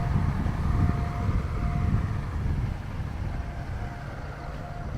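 Low engine rumble of a canal passenger boat moving off from the jetty, easing somewhat after about three seconds.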